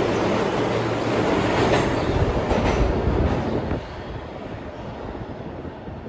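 New York City subway train running along the platform, its wheels clacking over rail joints, then the sound drops off sharply about two-thirds of the way through as the train pulls past, leaving a fainter rumble.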